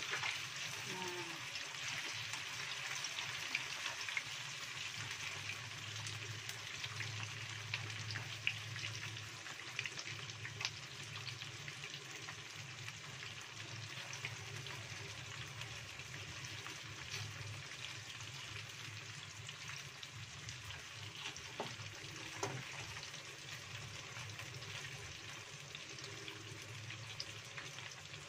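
Battered tofu pieces deep-frying in hot oil in a wok over a high flame: a steady sizzle that eases slightly, with a few sharp taps of a wooden spatula stirring them.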